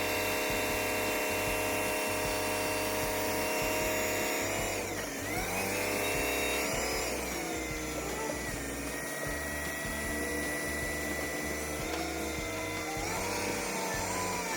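A motor-driven machine running with a steady whine and low hum, its pitch dropping and climbing back about five seconds in and again near the end.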